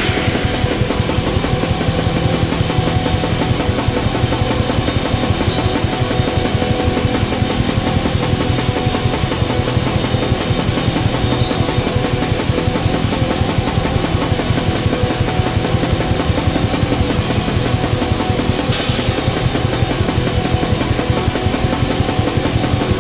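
Raw black metal: a dense, unbroken wall of distorted guitar over fast, continuous drumming, recorded lo-fi.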